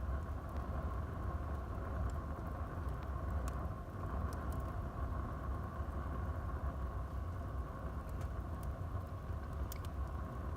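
Wood fire burning in a fireplace: a steady low rumble of the flames with a few scattered sharp crackles and pops.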